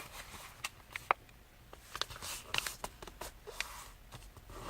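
A thin sheet of paper being folded and creased by hand: scattered crisp ticks and short soft rustles.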